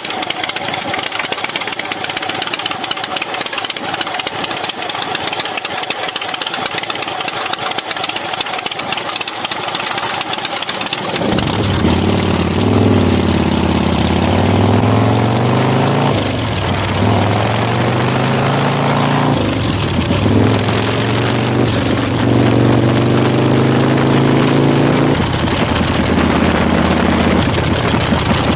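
Big Dog K9 chopper's V-twin engine under way with a steady rush of wind noise. About eleven seconds in the engine suddenly gets much louder, and its pitch then climbs and drops several times, as when the bike is accelerating and shifting gears.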